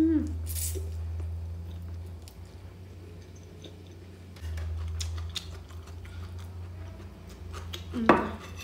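Noodles slurped from a fork, then close-up chewing with small soft wet clicks, over a steady low hum. About eight seconds in, a fork clinks sharply against a plate.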